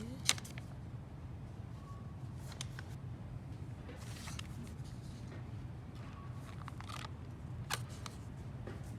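Store ambience with a steady low hum, and a few sharp clicks and short rustles of packaging being handled, the loudest click just after the start and another near the end.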